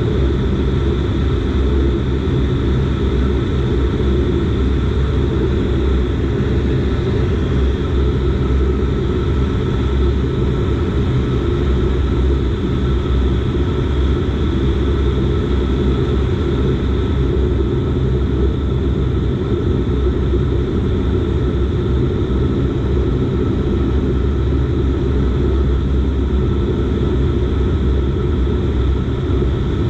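Dash 8 Q400's Pratt & Whitney PW150A turboprop engines and propellers running at a steady power setting. A constant deep drone with a faint steady whine above it.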